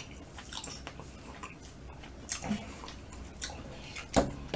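Close-miked chewing of smoked chicken meat: soft, wet mouth clicks and smacks, with one sharper snap near the end as fingers pick at the meat.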